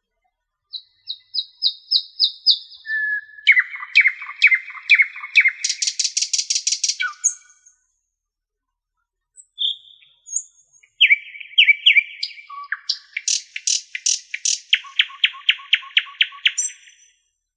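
A songbird singing in phrases of quick, high-pitched repeated chirps and trills, with a pause of about two seconds midway.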